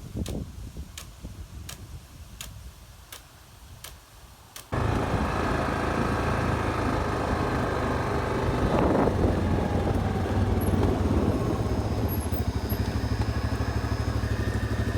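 Light, regular ticking about once every three-quarters of a second. About five seconds in, it gives way abruptly to an irrigation water pump running loud and steady, with a constant low hum from its electric drive motor.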